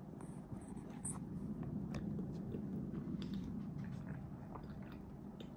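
Close chewing and mouth sounds of someone eating, with scattered faint clicks, over a steady low hum.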